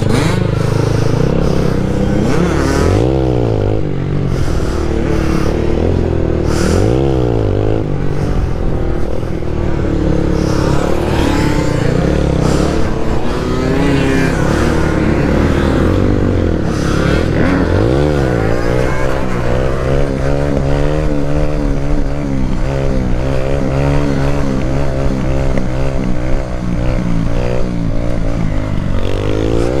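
Motorcycle engine running and revving: a few quick rises and falls in pitch in the first part, then a steadier run with a wavering pitch.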